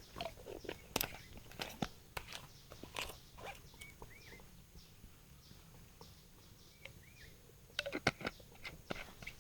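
Scattered light clicks and knocks from handling things at a camp cooking spot, with a quick cluster of them about eight seconds in. A bird gives a short chirp twice in the background.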